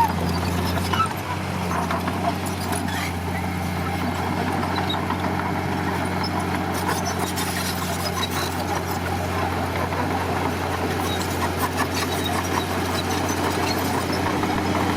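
Heavy earthmoving machine's diesel engine running steadily at a constant low pitch, with scattered light clanks and rattles.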